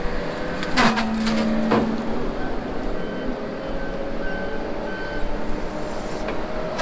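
Heavy vehicle engine running steadily, its pitch creeping slowly upward, with two sharp knocks about a second in and a few short faint beeps after them.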